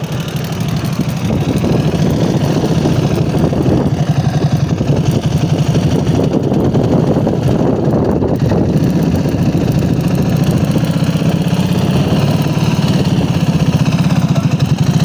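Dnepr motorcycle's flat-twin engine running steadily, getting a little louder about a second in and then holding its pace.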